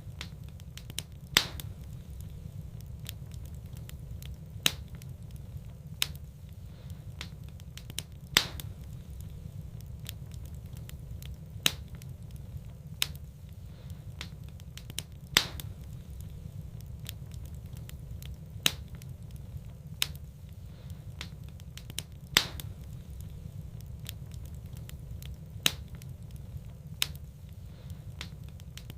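Wood fire in a fireplace crackling, with small sharp pops every second or so and a much louder pop every several seconds, over a steady low rumble.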